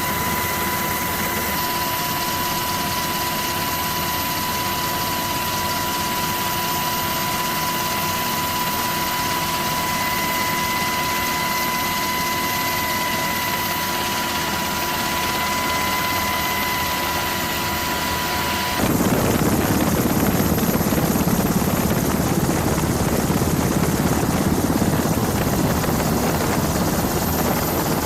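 Aircraft turbine engines running, a steady rush with a constant high whine. About two-thirds through it cuts abruptly to a louder, deeper engine rush without the whine.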